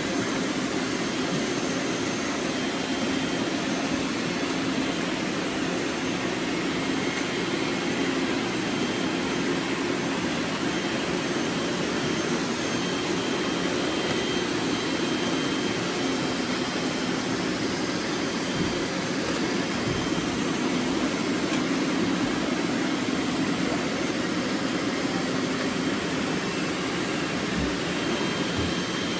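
Robot vacuums running: a steady whir of suction fans and brushes with a constant low hum.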